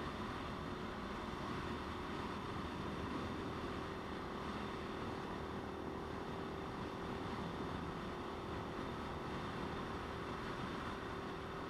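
Motorcycle riding at a steady speed: an even engine note with road and wind rush, holding steady with no change in revs.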